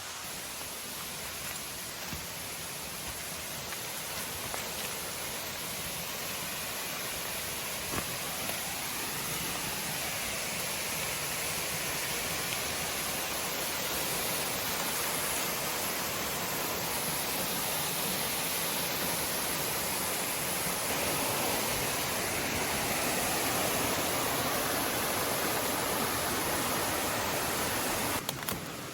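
Waterfall pouring into a rainforest creek, a steady rushing of water that grows gradually louder and drops off suddenly just before the end.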